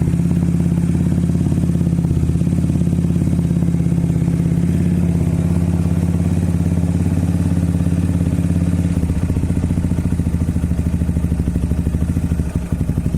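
Suzuki Raider J Pro's single-cylinder four-stroke engine idling steadily through a newly installed Apido aftermarket muffler. The exhaust beat becomes more distinctly pulsed about two-thirds of the way through.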